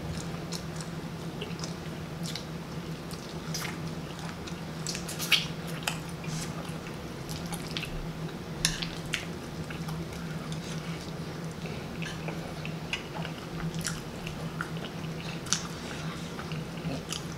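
Close-miked chewing and lip smacking while eating, a run of irregular wet clicks and smacks, the sharpest about five seconds in. A steady low hum runs underneath.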